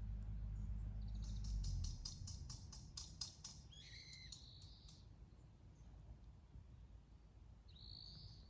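Faint bird calls: a quick run of high ticking notes, then short high-pitched calls, one more coming near the end. A low rumble fades out about two seconds in.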